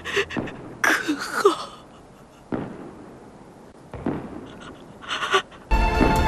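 Scattered fireworks bursts and crackles, several separate pops over a quiet background. Loud sustained music comes in near the end.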